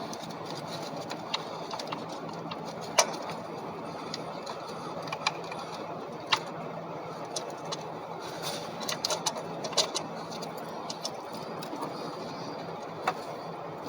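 Scattered light clicks and knocks of a valve cover and its gasket being worked into place on an engine, the sharpest about three seconds in and a small cluster near the ten-second mark, over a steady background hum.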